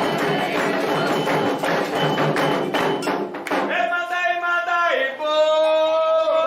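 Candomblé atabaque drumming with a struck bell plays a fast, dense rhythm and stops about three and a half seconds in. A single voice then holds a long, steady call that dips briefly in pitch twice.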